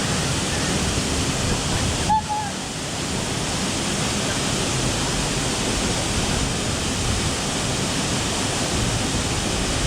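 Waterfall: a steady, even rush of falling water, with a brief dip about two seconds in.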